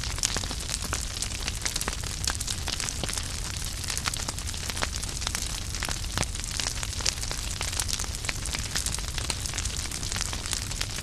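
Wood fire burning in a fireplace: dense, continuous crackling and snapping of burning logs over a steady hiss and low rumble of the flames.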